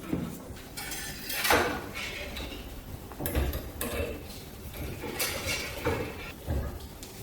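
Metal parts of an antique hand-crank grinder clinking and knocking as they are handled, with about seven irregular clanks.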